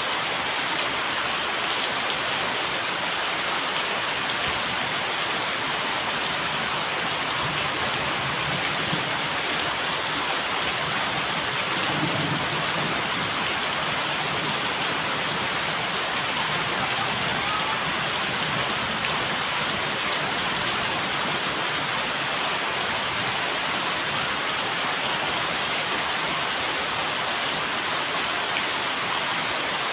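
Steady heavy rain falling, an even hiss of drops on surfaces. A low rumble of distant thunder rises under it about a third of the way in.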